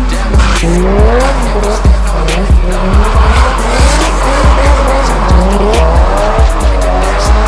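Car engines revving up and down repeatedly, laid over a hip-hop beat with heavy bass and a steady drum pattern.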